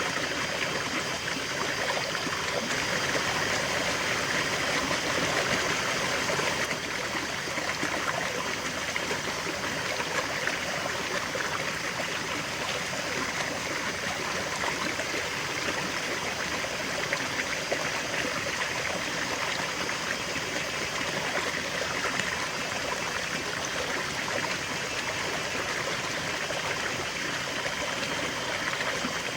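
River water flowing over stones, a steady rushing and babbling with small trickles.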